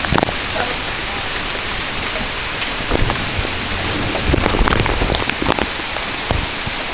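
Heavy rain pouring down steadily, a dense even hiss, with scattered sharp taps from nearby drops.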